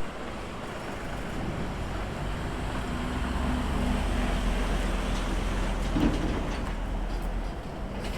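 A motor vehicle driving along a road: a steady engine drone with tyre and road noise, and a brief thump about six seconds in.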